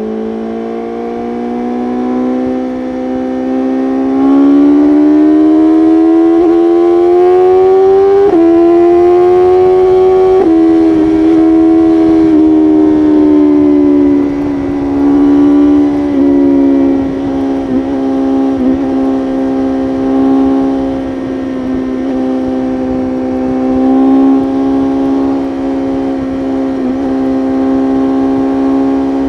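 BMW S1000RR's inline-four engine accelerating hard, its pitch climbing for about ten seconds with a quick upshift partway through. It then drops back and holds a steady high-speed cruise, with small throttle changes.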